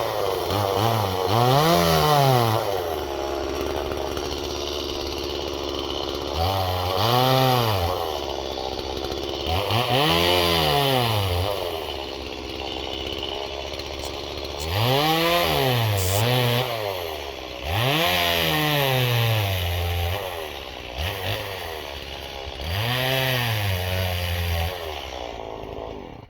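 Two-stroke Stihl chainsaw revved to full throttle about six times, each rev-up lasting a second or two before it drops back to idle, as it bucks a downed ash log into firewood rounds.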